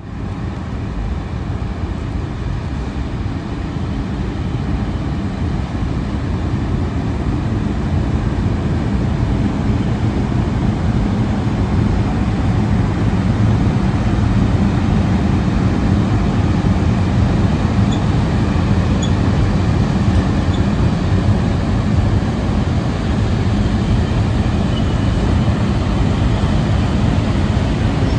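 ET41 electric locomotive running during shunting: a steady low drone and rumble that grows louder over the first ten seconds or so, then holds.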